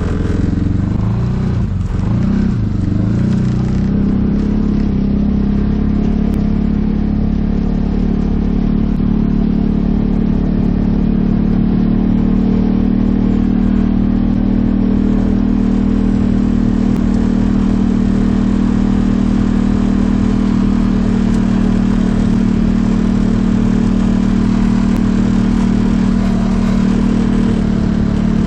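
Freshly rebuilt 2015 Polaris Ranger 570 UTV's single-cylinder engine running, its pitch rising and falling over the first few seconds, then holding steady.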